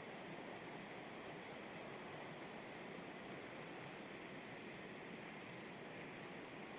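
River rapids: water rushing, a steady even noise with no let-up.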